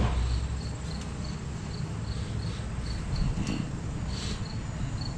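A cricket chirping in a steady rhythm, a little over two short chirps a second, over a low background rumble with a few faint rustles.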